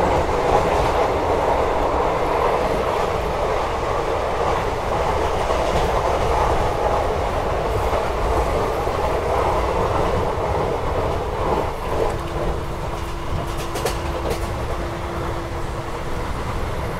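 Indian Railways sleeper-class coach running at about 96 km/h, heard at an open window: a steady, loud rush of wheels on rail and wind. About twelve seconds in a steady low hum joins it.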